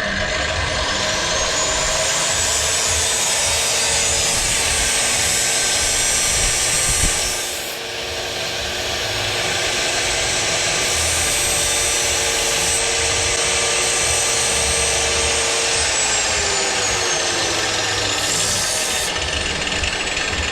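Grinding wheel sharpening a metal blade: a steady grinding hiss, with a high whine that rises as the wheel comes up to speed early on and falls away after about 16 seconds. There is a short break in the grinding a little before 8 seconds.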